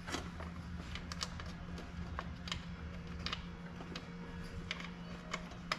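Light, irregular clicks and taps of small metal parts and a bolt being handled and fitted by hand, over a steady low hum.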